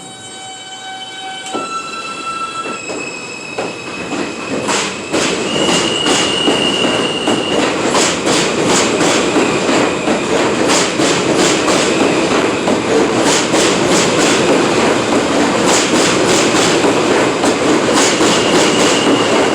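R160A subway train pulling away and picking up speed: its traction motors give steady tones that step up in pitch over the first few seconds, then the wheels clack over rail joints with a building rumble and a brief high wheel squeal twice.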